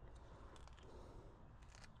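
Near silence: faint room tone with a few light handling ticks.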